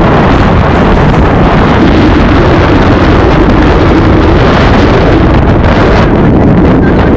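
Loud, steady rush of wind buffeting the microphone over the rushing water of a river run by raft.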